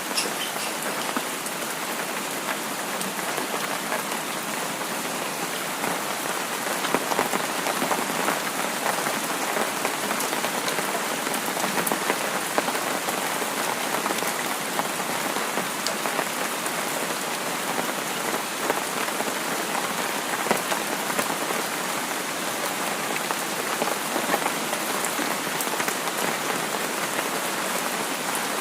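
Steady rain falling on a surface, an even hiss speckled with many small drop ticks, with no thunder.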